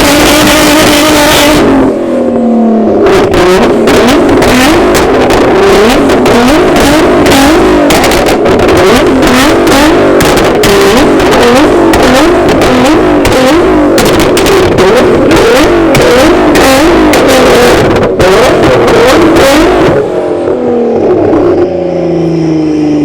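A performance car engine revving hard, its pitch climbing and dropping again and again about once a second, with crackling over it. It eases off near the end.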